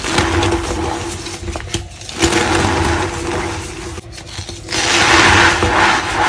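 A block of reformed gym chalk being squeezed and crushed by hand, giving a powdery crunching and squeaking. It comes in three long stretches, the last one the loudest.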